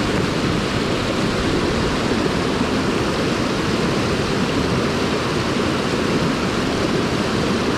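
Waterfall rushing steadily, heard close up at the mouth of the falls.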